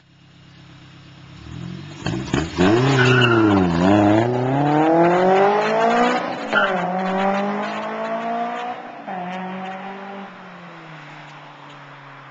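Honda S2000 inline-four with a T1R V3 70mm single exhaust and test pipe, accelerating hard. The pitch climbs and drops sharply twice with upshifts, then slowly falls and fades toward the end.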